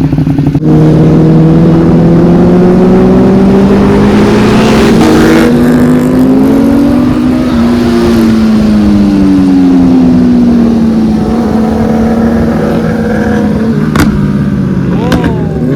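Superbike engine running at a steady cruise, its pitch climbing slowly over several seconds and then easing off, with another engine briefly crossing it in the middle. A couple of sharp clicks near the end.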